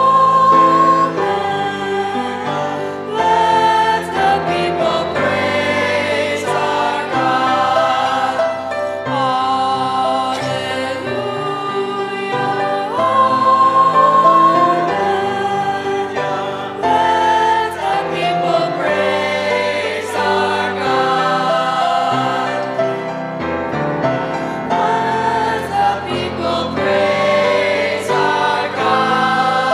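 Choir singing a song with instrumental accompaniment, sustained notes over a moving bass line.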